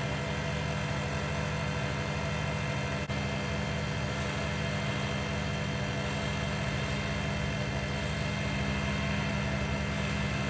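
Wood lathe running steadily at speed with a constant motor hum, spinning a resin pen blank during polishing.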